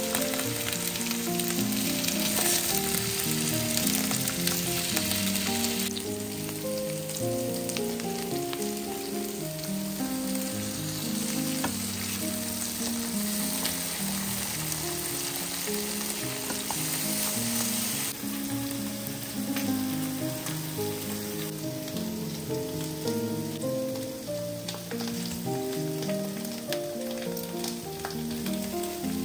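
Oil sizzling in a frying pan as potato slices and then liver patties fry, with a melody of background music running over it. The sizzle changes abruptly about six seconds in and again around eighteen seconds in.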